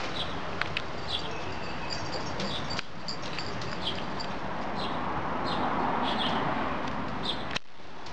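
Small birds chirping, short high calls repeated every second or so, over a steady background noise.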